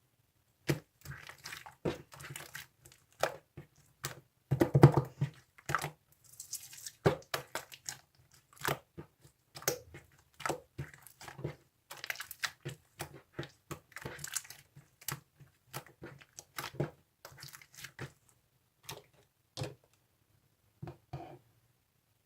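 Blue marbled slime being squished, folded and poked by hand, giving irregular sticky clicks, pops and crackles, densest about five seconds in.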